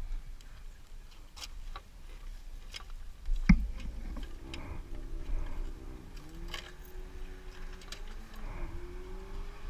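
Scattered light clicks and a sharp knock, then a faint engine hum that starts about four seconds in, its pitch rising and dipping.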